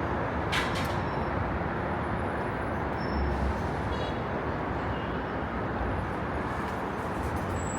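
Steady rumbling noise of a moving vehicle or traffic, with a short sharp click about half a second in.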